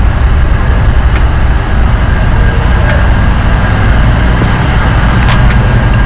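Riding noise on a 1990 Honda Gold Wing: wind buffeting the action camera's microphone over a steady low rumble of engine and road. A few sharp ticks come through, about one, three and five seconds in.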